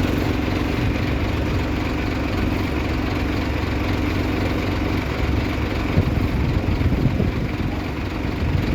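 Diesel engine of heavy earthmoving machinery running, with a steady hum for about five seconds, then rougher and less even, with a sharp knock about six seconds in.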